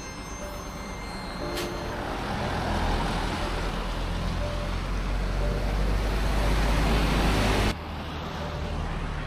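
Road vehicle noise: a steady rushing with a deep rumble that builds over several seconds, then cuts off abruptly near the end. There is a single sharp click about a second and a half in.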